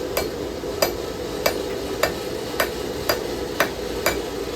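Light, evenly spaced hammer taps on a hot steel knife blade against an anvil, eight strikes at about two a second, working a curve in the blade over to the other side. A steady rushing noise runs beneath the taps.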